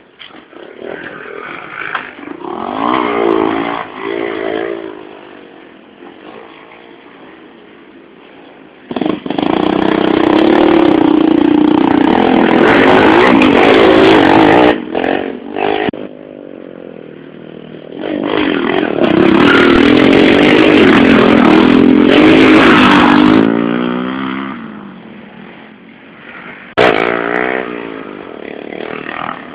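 110cc motorcycles racing on a dirt and sand track, engines revving up and down as they go. Two long, loud stretches come as bikes run close by, with quieter engine sound in between.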